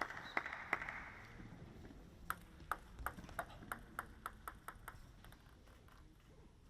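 A table tennis ball bouncing on a hard surface, the bounces coming quicker and quicker as it settles, after the last of the crowd applause dies away in the first second.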